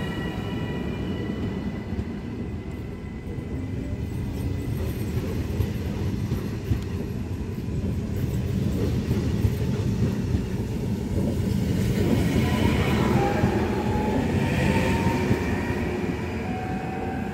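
Double-deck electric regional train (Trenitalia Rock) moving off along the platform: a steady rumble of wheels on rail that grows louder after about ten seconds. Thin whining tones rise over the rumble near the end.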